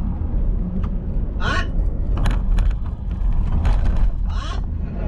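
Steady low rumble of a car driving, road and engine noise, with a few light clicks and two brief squeaks, one about a second and a half in and one near the end.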